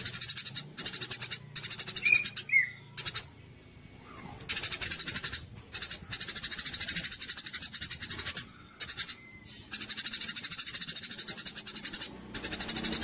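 A small songbird singing rapid, high-pitched trilled phrases, each lasting from half a second to about a second and a half, repeated with short pauses between them. This is a masteran recording of the song used to train caged songbirds.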